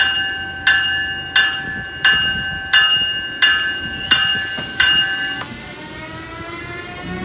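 A bell rings in even strokes, about one and a half a second, and stops after about five seconds. Then the Amtrak ACS-64 electric locomotive's traction motors whine in several tones that rise steadily in pitch as it accelerates.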